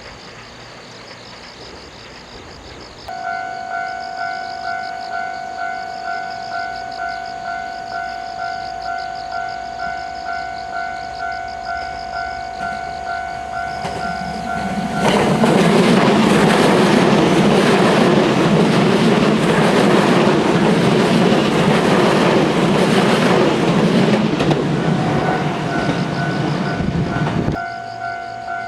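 A railway level-crossing warning bell rings in a steady, even pulse about twice a second. About halfway through, a train passes loudly for some twelve seconds and drowns out the bell, which is heard again near the end.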